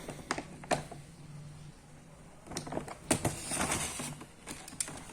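A bag of Reflex dry cat food being opened and handled: a few clicks, then plastic rustling with the kibble rattling inside for a couple of seconds.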